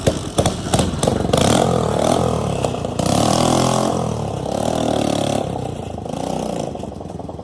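Motorcycle engine revving through a burst silencer, its pitch rising and falling, with a run of sharp pops in the first second or so.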